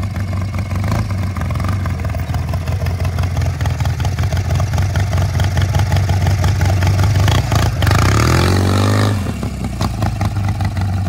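Small engine of a rock-crawling riding lawn mower running steadily under load. About eight seconds in it revs up sharply for a second, then drops back.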